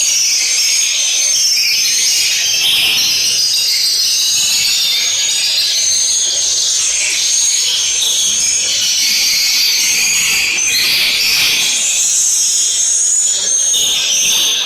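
Many swiftlets chirping and twittering continuously, a dense high-pitched chatter.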